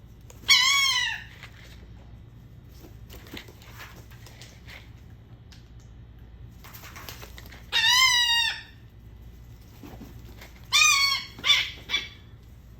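Seagull calling three times, each a loud ringing call under a second long that arches and falls in pitch. The last call is followed by two short clipped notes.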